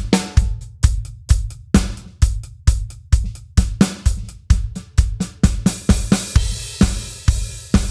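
Drum kit playing a driving rock groove: steady bass drum and snare strokes under an eighth-note hi-hat. About two-thirds through, a cymbal comes in and rings on over the beat.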